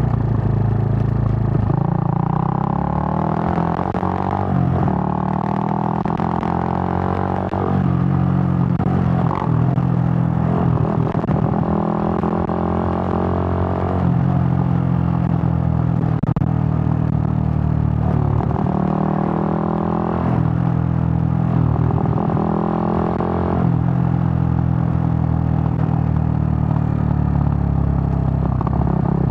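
Suzuki GN125's single-cylinder four-stroke engine pulling while riding, its pitch climbing under throttle and dropping at each gear change, several times.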